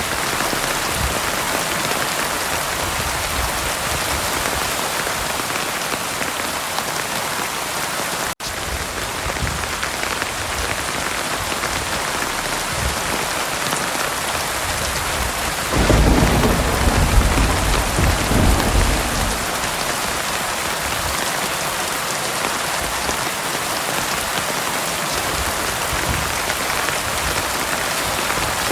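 Heavy rain falling steadily, with a low roll of thunder about 16 seconds in that lasts a few seconds. There is a momentary break in the rain sound about 8 seconds in.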